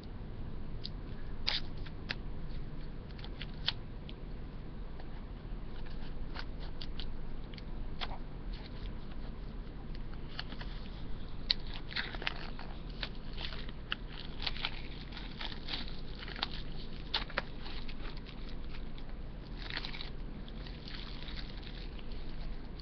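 Plastic shrink-wrap crinkling, crackling and tearing as it is picked at and peeled off a Blu-ray digibook: irregular sharp crackles and rustles, busiest in the middle and later part.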